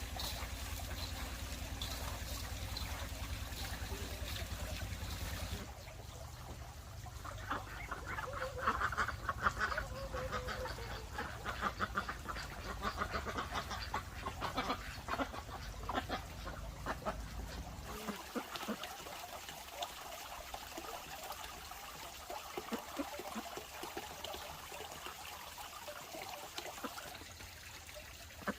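A flock of ducks quacking, many quick overlapping calls starting several seconds in. Before that there is a steady rushing noise with a low hum.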